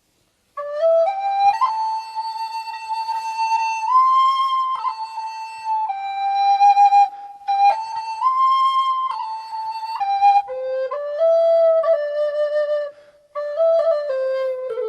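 Solo recorder playing a slow melody unaccompanied, one held note stepping to the next. It starts about half a second in and breaks off briefly near the end.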